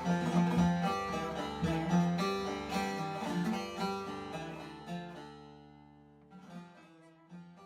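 Instrumental music on plucked strings, in the manner of Turkish bağlama playing, a quick run of plucked notes that thins and fades out over the last few seconds, leaving a few final notes.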